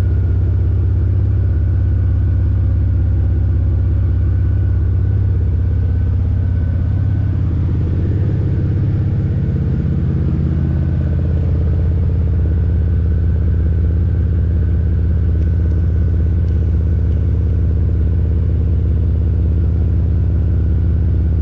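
BMW E92's N54 inline-six engine idling steadily, a deep, even running sound, with a brief wobble in the idle about halfway through.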